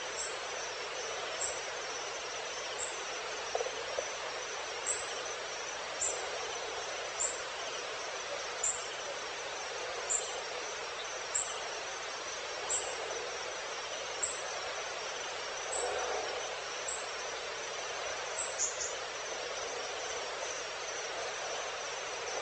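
Evening insect chorus: a steady high trill with a short high chirp repeating about every second and a half, over a constant hiss.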